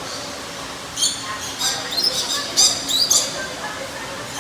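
Birds squawking: a rapid run of short, high-pitched squawks starting about a second in and lasting about two seconds.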